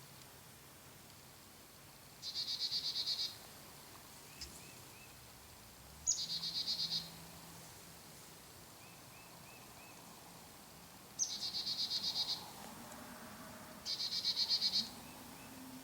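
A small animal's high, rapid trill, about a second long, repeated four times over a faint woodland background.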